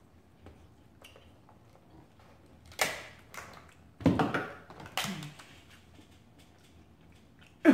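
A few sharp clacks and clatters of mussel shells being handled while eating, the loudest cluster about four seconds in.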